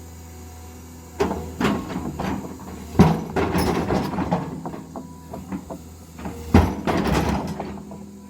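Wooden stakes being driven into the ground: irregular knocking and rattling, with two heavy knocks about three and six and a half seconds in, over a steady low engine hum.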